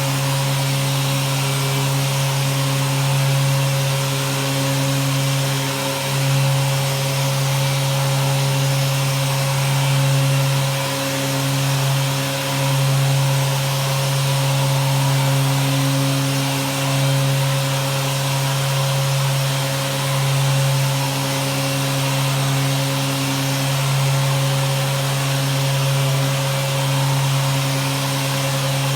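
Electric sander running with a dust-extraction vacuum attached: a steady motor hum over an airy rushing hiss, shifting slightly in pitch and level every few seconds.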